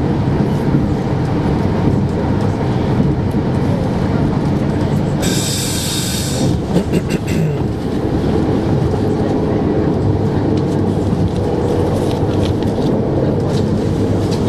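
Passenger train running at speed, heard inside the carriage: a steady rumble of wheels on rails, with a sudden burst of hiss about five seconds in that lasts about a second, and a few short rail clicks later.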